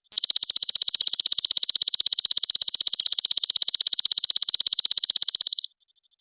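A loud, high-pitched animal trill of very rapid, even pulses, about a dozen a second, held steady for about five and a half seconds before cutting off suddenly. It is used as a song recording for training a cendet (long-tailed shrike), with a faint trill of the same pitch repeating before and after.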